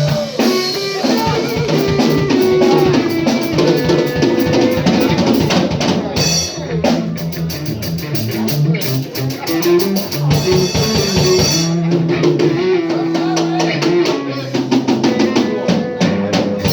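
Live band playing an instrumental passage without vocals, led by a drum kit with a steady beat under sustained bass notes and chords.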